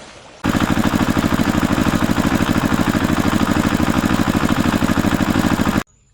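A cartoon vehicle engine sound effect: an engine running at a steady, fast chug of about a dozen beats a second, which starts and cuts off abruptly.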